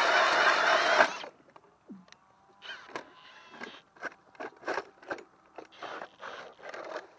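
Cordless Ridgid hammer drill spinning a 6-inch Swede-Bore ice auger through the ice, cutting off suddenly about a second in. After it comes a run of short crunching scrapes, roughly two a second.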